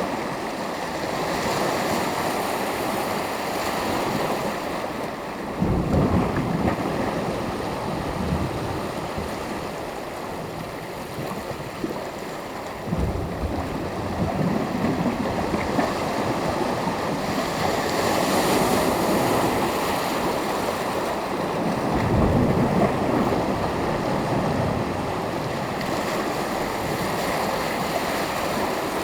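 Sea surf: small waves breaking and washing on the shore in a steady wash, with a few louder breaks swelling up about every eight seconds, and some wind on the microphone.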